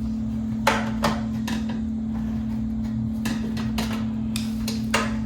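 A series of sharp knocks and taps, about seven in five seconds, from the box fan being handled, over a steady low hum.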